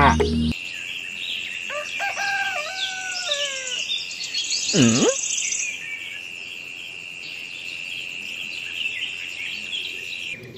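Birds chirping and calling over a steady high tone, with a long swooping call that dips and rises again about five seconds in; a cow's moo ends about half a second in.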